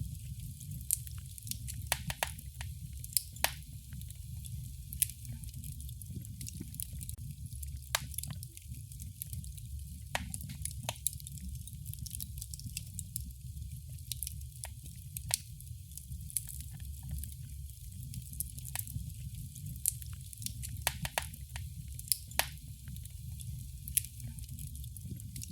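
Wood fire burning in a fireplace: a steady low rumble and hiss of the flames with sharp, irregular crackles and pops every second or so.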